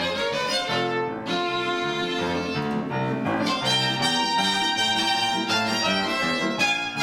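Violin duet with piano accompaniment playing a lively piece in short, changing notes.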